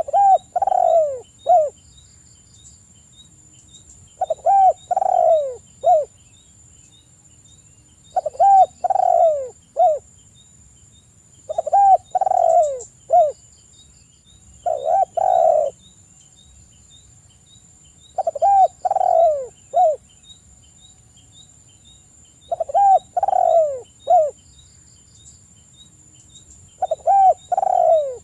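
Spotted dove (tekukur) cooing: a short phrase of three or four arched coo notes, the last one clipped, repeated eight times at about four-second intervals. This is the bird's territorial call, played as a lure to draw a reply from other doves.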